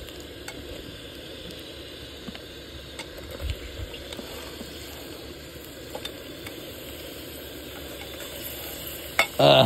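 Chicken pieces sizzling as they fry in hot oil with half-fried onions in an open pressure cooker pot: a steady hiss, with a few faint taps and one dull low thump about three and a half seconds in.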